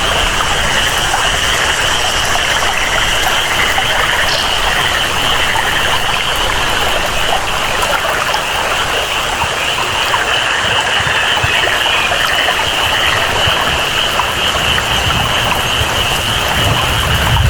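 Tropical rainforest ambience: steady rain and flowing water, with a continuous high-pitched chorus of calling frogs or insects running through it.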